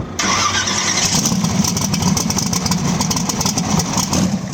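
A race car engine running loud and close, with a rapid, uneven firing pulse; it starts abruptly just after the opening.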